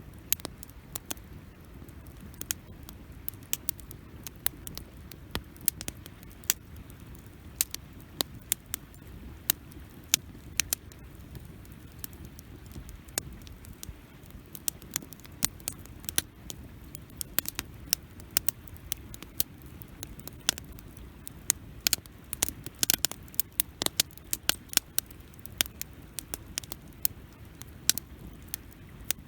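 Wood campfire crackling: irregular sharp pops and snaps, several a second, over the low steady rush of the flames.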